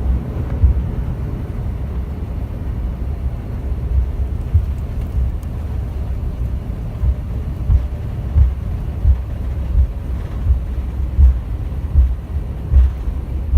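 Low, steady rumble inside the cabin of an Airbus A330-200 rolling on the ground after landing, broken by irregular low thumps and bumps.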